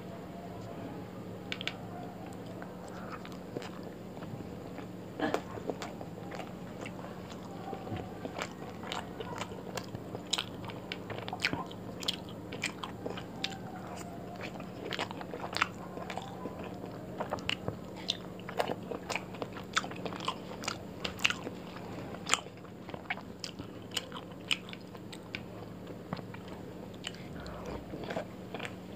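Close-miked chewing and lip-smacking as a person eats roti with chicken curry by hand: many short, sharp, wet mouth clicks, over a steady low hum.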